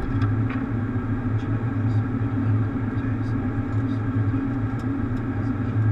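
Steady low hum and rumble inside a Boeing 737 cockpit, the airliner's running machinery and ventilation, with a few faint ticks.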